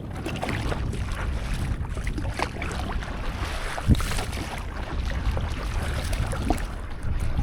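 Water splashing and lapping around a stand-up paddleboard as it is paddled, with wind rumbling on the microphone. A sharper splash comes about four seconds in.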